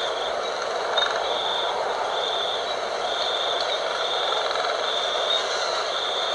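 Steady night wind blowing, with a high, even chirping that comes in pulses about once a second over it. There is a single sharp click about a second in.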